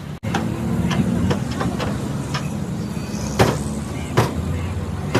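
A steady motor hum with scattered sharp knocks, about a dozen of them at irregular intervals.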